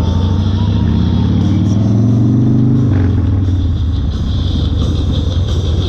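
1992 Harley-Davidson Fat Boy's 1340 cc Evolution V-twin accelerating on the road, its pitch rising for about three seconds, then dropping suddenly with a short click, as at a gear change, and running steadily after.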